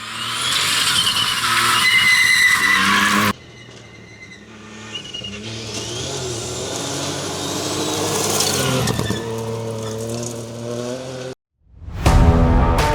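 Ford Fiesta Rally4's turbocharged three-cylinder engine revving hard at speed, with tyre squeal and engine notes rising and falling in pitch. The sound breaks off abruptly about three seconds in and again shortly before the end, where rock guitar music starts.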